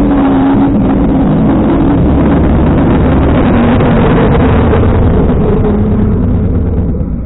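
Car engine running loud under throttle, its pitch shifting up and down, easing off near the end.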